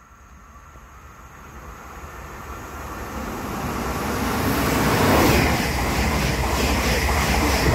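Double-deck electric passenger train passing through a station at speed without stopping. Its wheel and rail noise grows steadily louder over the first five seconds as it approaches, then holds as a loud rush while the coaches go by.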